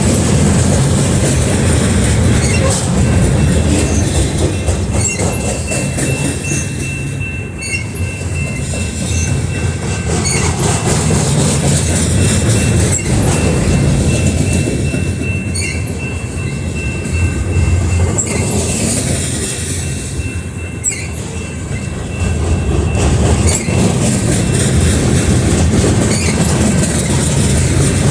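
Heavy loaded freight train rolling past: a steady low rumble with wheels clacking over rail joints. A thin, high wheel squeal holds for several seconds near the middle.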